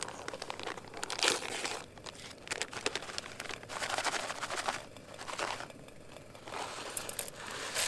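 Crinkly food packaging, likely the salmon pouch, being handled and crumpled in a run of irregular rustling bursts.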